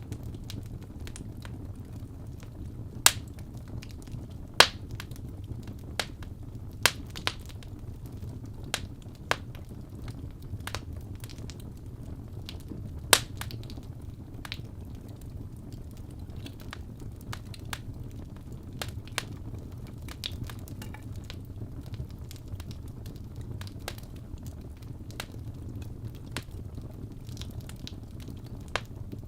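Wood fire crackling, with irregular sharp pops and snaps over a low steady rumble of the flames. The pops come thickest and loudest in the first half.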